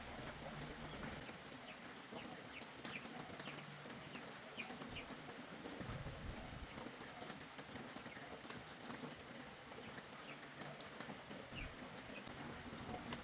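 Faint background ambience with a few short, high chirps, like small birds, and scattered light clicks or taps.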